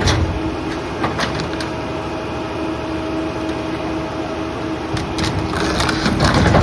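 Rear-loader garbage truck running with a steady engine drone, with sharp knocks of debris being loaded and a louder clattering stretch near the end.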